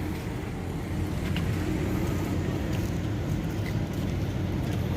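Steady low rumble of motor vehicles, a traffic-like background with a faint engine hum.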